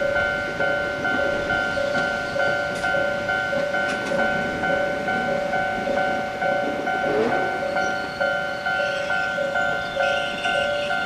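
Japanese railway level-crossing warning bell ringing steadily at about two strokes a second, with the running noise of a train underneath.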